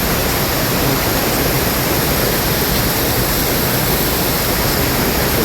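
La Fortuna Waterfall, a steady loud roar of falling water that holds even throughout.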